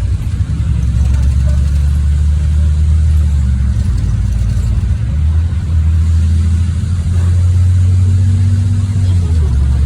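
NefAZ 5299 city bus engine running with a loud, low drone while the bus drives, its pitch shifting a few times as the speed and gears change.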